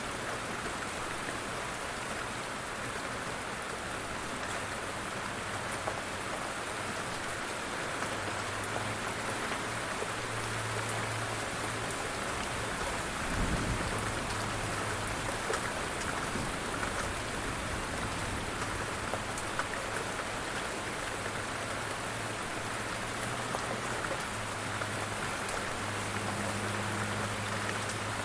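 Steady rain falling on a surface, with scattered individual drops ticking through the hiss. About halfway through there is a brief low rumble.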